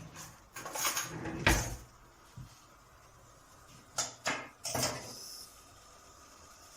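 Kitchen handling sounds: a few short knocks and clatters, in two bursts about three seconds apart, like a cupboard or utensils being moved.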